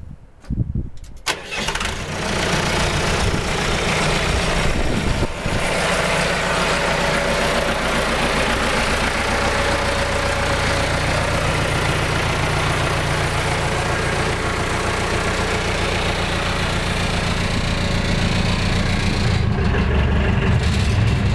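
2003 Vermeer BC1230 wood chipper's engine being started, catching within the first couple of seconds, then running steadily. Near the end its sound shifts lower.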